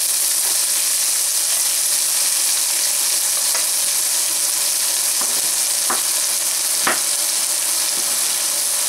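Asparagus pieces sizzling steadily in butter and oil in a skillet as they brown. A few sharp knife chops on a wooden cutting board cut through it, the loudest about seven seconds in.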